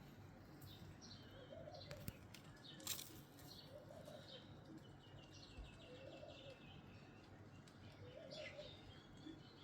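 Faint birdsong: a dove's low coo repeating about every second and a half, with small birds chirping and a short trill in the middle. A sharp click about three seconds in.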